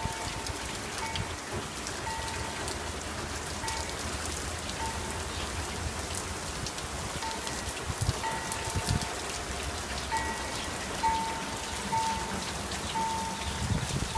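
Steady rain falling, an even hiss across the whole sound. A faint short high note repeats on and off throughout, and a few dull low thumps come near the end.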